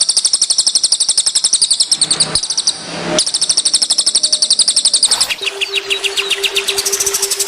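Recorded songbird trills from a cage-bird tutor track of cililin and kapas tembak song: rapid runs of high, sharp chirps, about ten notes a second, with a short break about two and a half seconds in. About five seconds in, a lower trill and a steady low hum come in.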